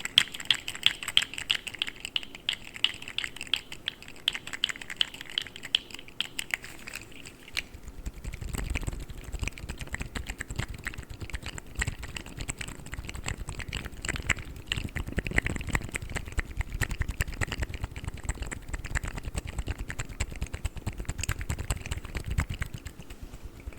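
Articulated plastic fidget slugs being wiggled and handled, giving fast, dense clicking and rattling of their segments. After about seven seconds, deeper rubbing and knocking from handling joins the clicks.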